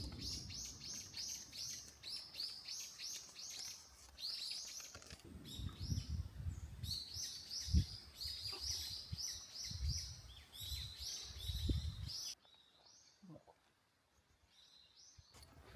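Birds chirping in quick repeated high notes, several a second, over intermittent low thumps. About twelve seconds in, the sound drops suddenly to a much quieter stretch with only a few faint chirps.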